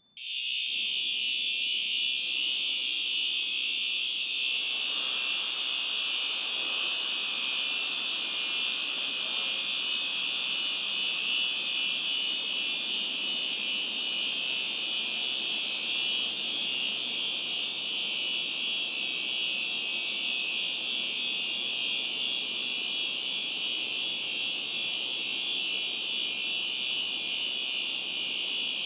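Fire alarm sounding as the hangar's high-expansion foam suppression system is set off: one continuous high-pitched alarm tone that switches on suddenly and holds without a break. A steady rushing noise builds beneath it from about five seconds in.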